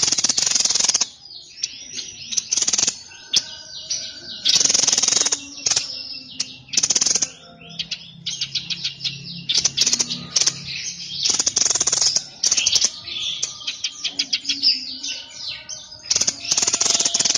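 A songbird known in the Indonesian songbird hobby as 'burung sniper' sings a fast, varied song: runs of quick high chirps and trills broken every few seconds by loud, harsh rattling bursts.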